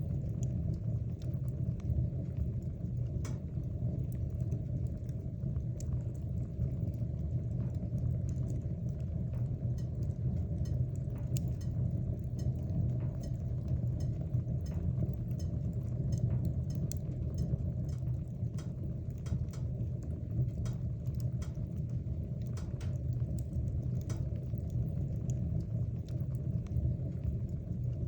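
Wood fire burning in a fireplace: a steady low rumble of the flames with frequent small, sharp crackles and pops from the burning wood, scattered irregularly throughout.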